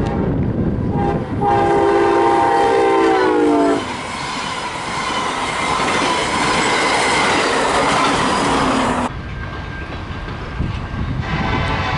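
A locomotive air horn sounds a chord of several notes for about two and a half seconds, bending down in pitch as it ends. The train's loud rumble and wheel noise follow for about five seconds, and another horn blast begins near the end.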